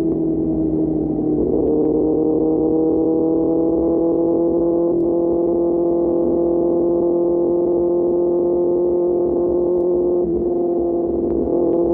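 QJ Motor SRK600's inline-four engine through an SC-Project exhaust, running steadily under way with its pitch creeping slightly upward and brief dips about five and ten seconds in.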